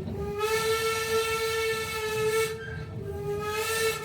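Steam locomotive whistle blowing: a long blast, then a second, shorter one about three seconds in. Each slides up slightly in pitch as it opens, over a hiss of steam.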